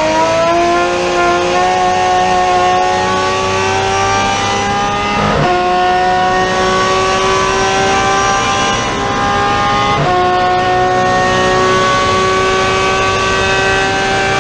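Race car engine at full throttle, its pitch climbing steadily and dropping sharply at two upshifts, about five and ten seconds in.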